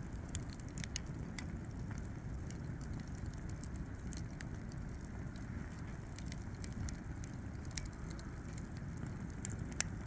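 Wood fire burning in a campfire stand, with a steady low rumble and scattered sharp crackles and pops.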